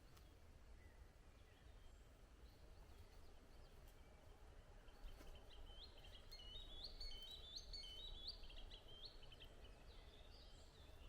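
A small bird singing faintly, a quick run of short high chirps lasting a few seconds from about halfway in, over a quiet low rumble of near silence.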